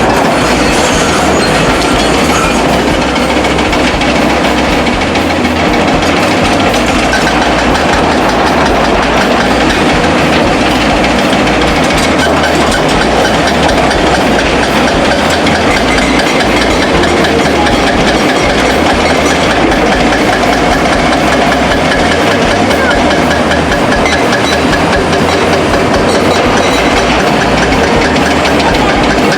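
Heavy construction machinery running steadily: a loud, dense engine noise with a continuous rattle and no pauses.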